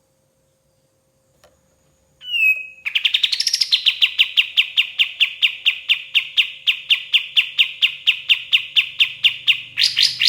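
A kapas tembak songbird singing: a single falling whistle, then a long, fast run of sharp repeated notes at about four a second, ending in a quicker, louder flourish near the end.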